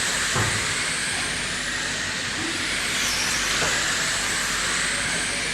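A pack of brushless-electric RC dirt oval cars running around the track: a steady high hiss of electric motor whine and tyres on dirt, with faint rising and falling pitch as motors rev and ease.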